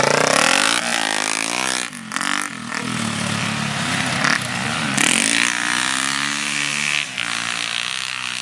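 Motocross motorcycle engine revving, its pitch rising and falling several times as the throttle is worked, with a brief drop about two seconds in.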